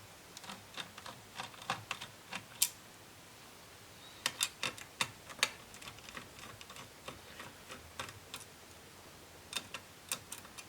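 Irregular small clicks and taps of a screwdriver working on the screws of a laptop's CPU heatsink and fan, with a few sharper clicks clustered about four to five seconds in and again near the end.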